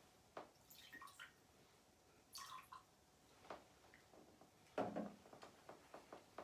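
Faint handling sounds: small clicks, light knocks and a trickle or drip of liquid, with one louder knock about five seconds in.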